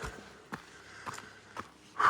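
A hiker's footsteps on a trail, about two steps a second, fairly faint.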